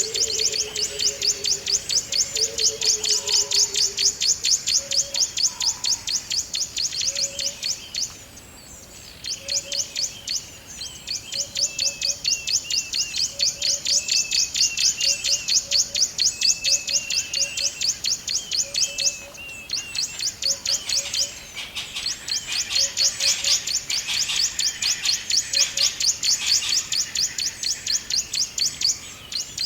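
Forest ambience: a steady, rapid high-pitched chirping, about four chirps a second, that pauses briefly twice, with short bird calls and low short notes scattered over it.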